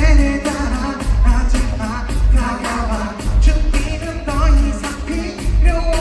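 Korean pop song with a man singing over a heavy bass beat and crisp percussion.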